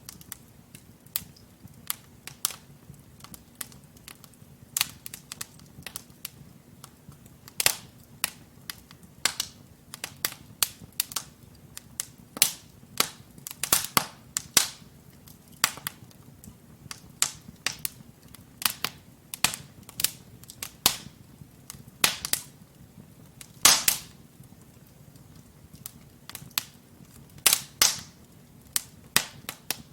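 Wood fire of burning logs in a fireplace crackling: irregular sharp pops and snaps, sometimes several close together, over a faint steady low rush of flame. A few pops, about two thirds of the way in and near the end, are much louder than the rest.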